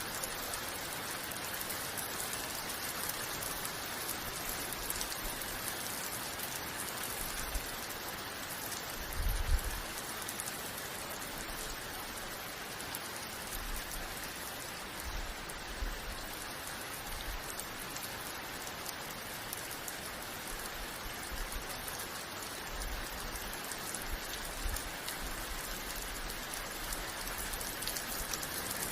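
Steady rain falling, a dense, even hiss of drops on surfaces, with a few short low thumps, the loudest about nine seconds in.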